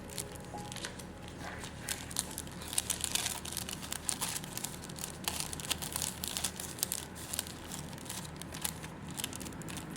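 Plastic packaging crinkling and rustling as it is handled, with irregular sharp crackles throughout.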